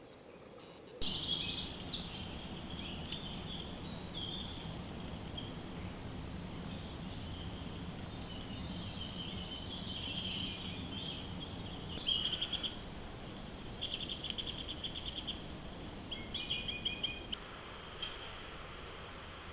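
Small birds chirping and trilling in short repeated phrases, over a steady low background noise.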